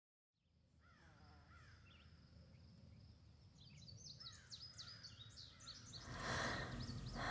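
Birds chirping, many short rising and falling calls, fading in from silence and growing busier and louder. A soft rush of noise swells in about six seconds in.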